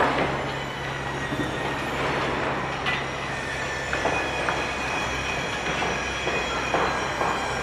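Steady heavy-machinery din with a low hum, several high metallic squealing tones held throughout, and scattered knocks and clanks.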